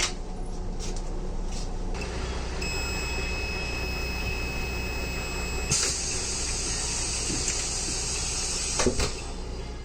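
VR Dm12 diesel railbus: a steady low engine hum that deepens about two seconds in, a steady high beep lasting about three seconds, then a sudden hiss that runs until a knock near the end.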